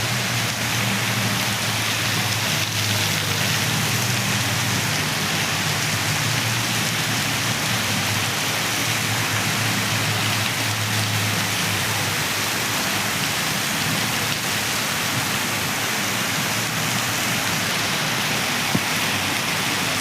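Heavy rain falling steadily, a dense, even hiss of downpour that doesn't let up.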